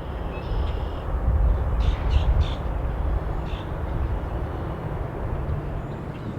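Wind buffeting the microphone as a steady low rumble outdoors, with a few short bird calls about two seconds in and again about a second later.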